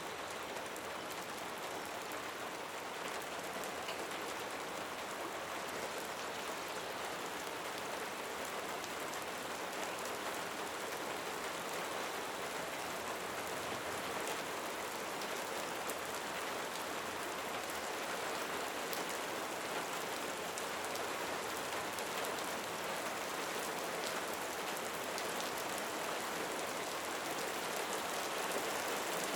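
Steady rain falling, an even constant hiss that grows slowly a little louder.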